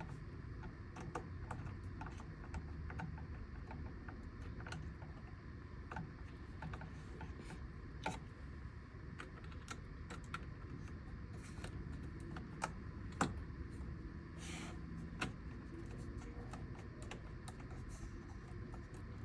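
Irregular light clicks and taps of small plastic trim parts and connectors being handled and fitted during a steering-wheel install. There are a few louder knocks about eight and thirteen seconds in and a brief rustle just before fifteen seconds, over a low steady hum.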